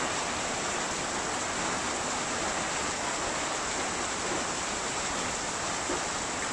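Heavy rain falling in a steady, even downpour hiss.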